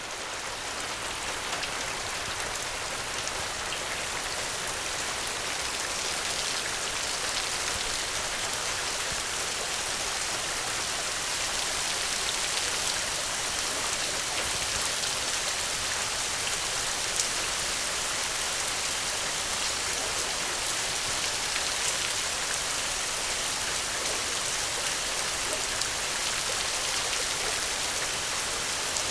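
Steady rain falling, an even hiss with faint scattered drop ticks, swelling up over the first second or two and then holding level.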